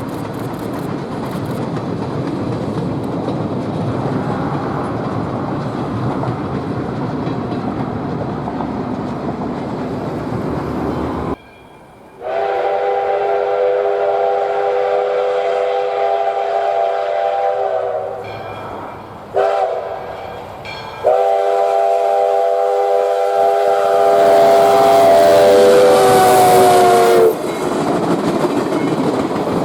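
A train rumbles past for the first eleven seconds. After a sudden cut, the steam locomotive's chime whistle blows a long blast, a short toot and another long blast; the pitch sags slightly as the last blast ends.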